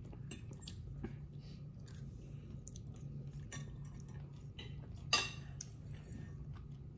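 People chewing food, with small clicks and scrapes of forks on plates. One louder fork clink comes about five seconds in, over a faint steady low hum.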